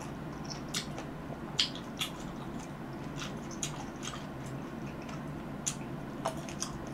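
Close-miked wet mouth sounds of someone eating fresh cherries: scattered lip smacks, sucks and soft chews at irregular intervals, the sharpest about a second and a half in, over a steady low hum.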